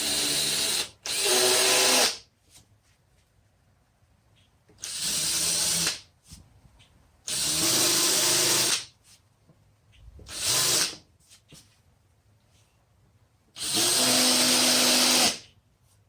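Power drill countersinking pilot holes in a thin wooden board. It runs in six short bursts with pauses between, a steady motor whine in each.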